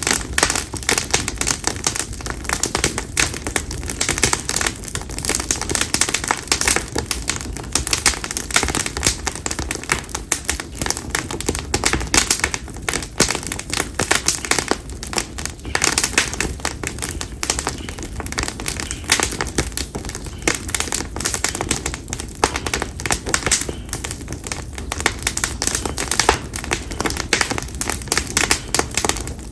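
Split konara oak (Quercus serrata) firewood burning in a bonfire, crackling continuously with dense, rapid, irregular snaps and pops over a steady low rumble.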